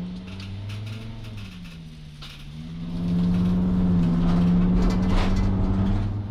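2006 Sprinter van's diesel engine under way: it runs lighter and quieter at first, then pulls harder and louder from about three seconds in, and eases off again near the end.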